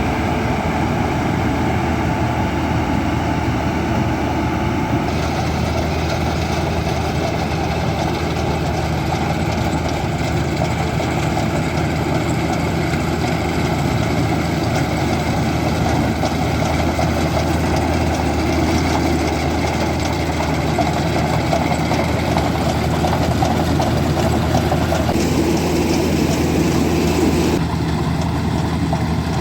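Diesel engine of farm machinery running steadily under work, with a deep steady hum and a mechanical rush on top. The sound changes abruptly about five seconds in and twice more near the end.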